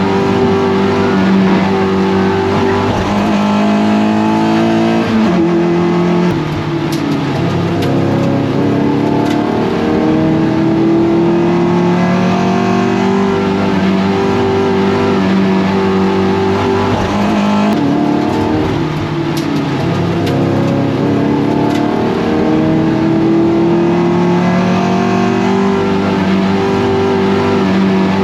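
Toyota MR2 race car engine under hard racing load, its note climbing steadily through the revs and dropping back at each gear change or braking point several times over.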